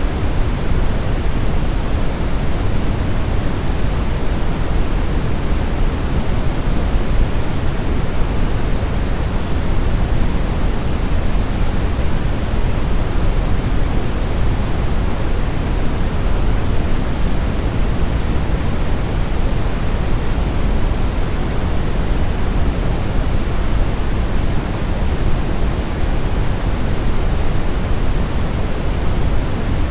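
Continuous brown noise: a steady, even rumbling hiss, strongest in the deep lows and rolling off toward the highs, with no changes or events.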